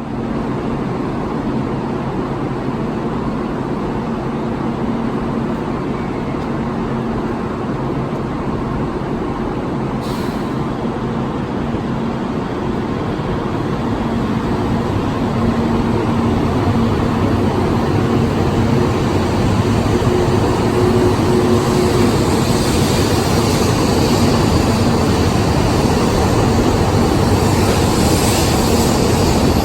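Kyushu Shinkansen 800 series train running, a steady rushing noise with a held low hum. It grows louder about halfway through, and more hiss builds up toward the end.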